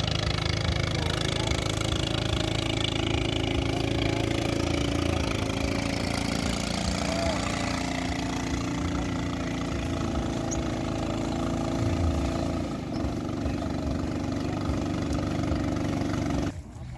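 An engine running steadily at idle, stopping abruptly near the end.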